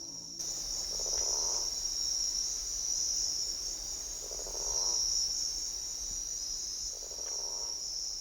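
Crickets chirring in a continuous high-pitched drone, with three soft, lower sounds about three seconds apart.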